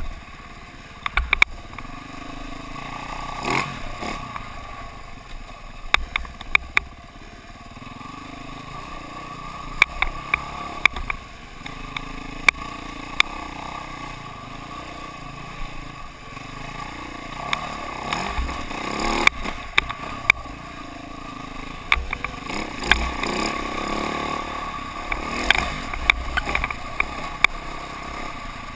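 KTM dirt bike engine running steadily as the bike is ridden, with frequent sharp knocks and rattles throughout.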